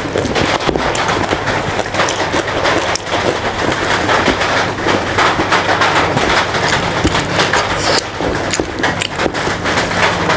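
Close-miked mukbang eating sounds: wet chewing and lip-smacking full of sharp clicks, with fingers squishing and mixing rice on a steel plate. A steady low hum runs underneath.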